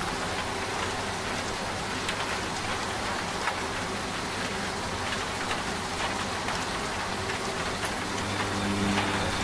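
Steady rain falling, with scattered drop ticks, over the low hum of a washing machine; the hum fades soon after the start and comes back stronger about eight seconds in.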